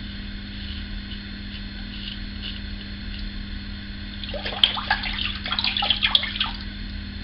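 Wet shaving with a safety razor: faint light ticks, then about four seconds in a couple of seconds of crackling, splashing sounds, like the razor scraping lathered stubble or being rinsed. A steady low hum runs underneath.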